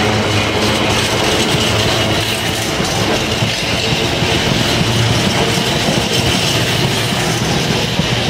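A train running past on the rails, a steady loud rumble of wheels on track with no break.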